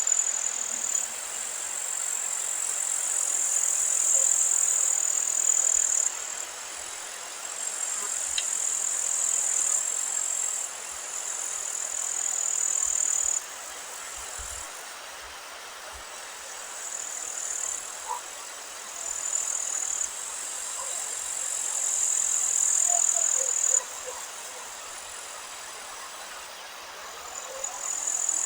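Meadow ambience: a steady high-pitched buzzing of insects that swells and drops in long stretches, over a haze of wind. Faint, short bird chirps come in the second half.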